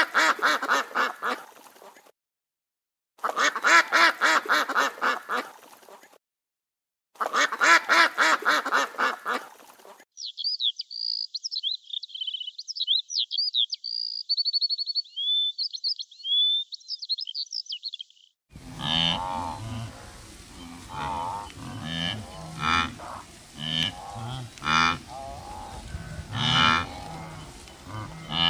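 A string of animal calls: three long, pulsing calls with gaps between them, then high thin bird chirps for several seconds, then a busier run of repeated calls over background noise.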